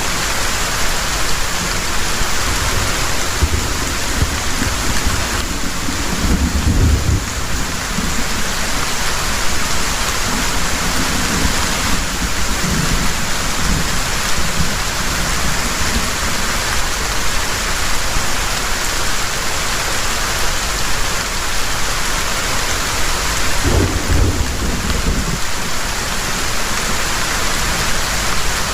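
Heavy rain pouring steadily with low rolls of thunder, swelling about a quarter of the way in and again near the end.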